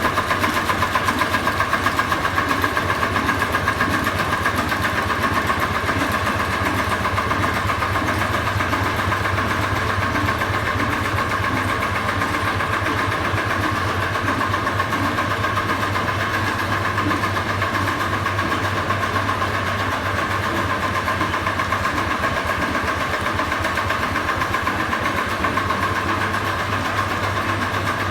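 Petter S type single-cylinder stationary engine running steadily with an even beat, driving a line shaft.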